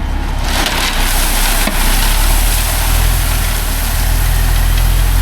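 Heavy diesel engine running, picking up revs about a second in and then holding steady, with an even hiss over it.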